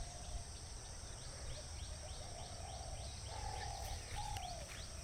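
Outdoor birdsong: a bird gives a rapid run of short, high falling chirps, and lower falling calls come in about three and four seconds in. Under them are a steady high-pitched drone and low rumble.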